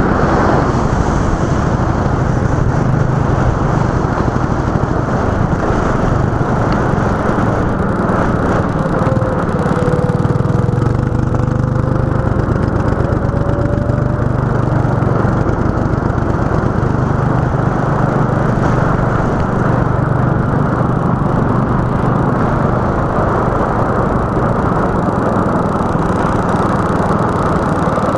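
Go-kart engine running continuously, a loud steady drone, with a faint whine rising slightly in pitch for a few seconds in the middle.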